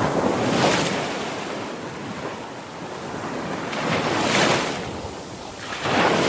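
Sea waves crashing and swelling: a rush of surf rises and falls back three times, a little after the start, about four seconds in, and again near the end.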